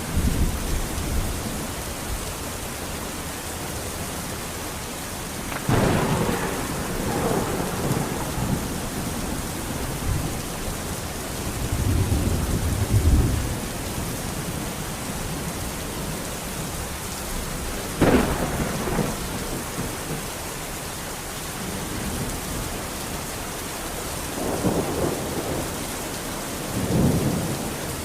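Steady heavy rain with thunder: sharp thunderclaps about 6 and 18 seconds in, each trailing off into a rumble, and lower rolling rumbles in between and near the end.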